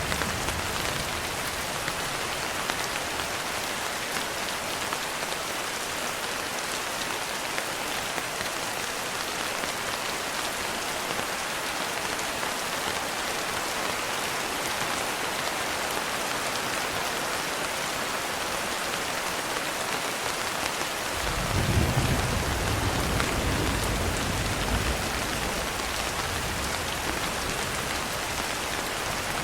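Steady rainfall, an even hiss throughout. About two-thirds of the way through, a low rumble of distant thunder swells and fades over several seconds.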